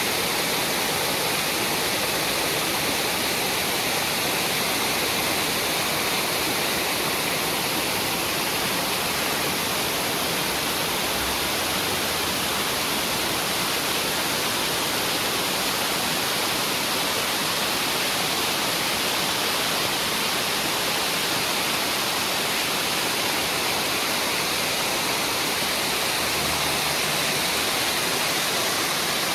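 Steady, even rushing noise that does not change, with no bird calls standing out.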